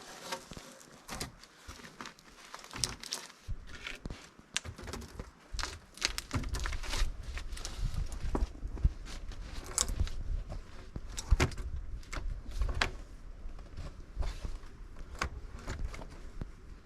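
Irregular knocks, cracks and crunchy rustles of branches and sticks being handled and set into a lean-to shelter, with footsteps in between. A low rumble sets in about six seconds in.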